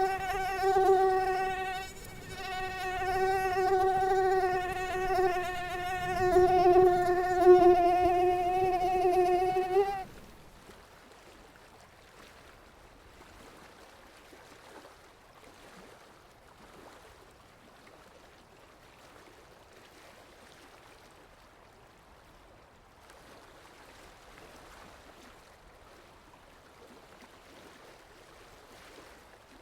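Mosquito wings whining: a steady, buzzing hum with a slight waver, which dips briefly about two seconds in and cuts off abruptly about ten seconds in. Only a faint background hiss follows.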